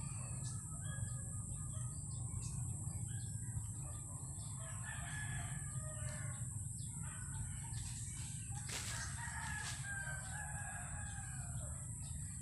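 Rooster crowing, with the longest calls in the second half, over a steady high-pitched hiss.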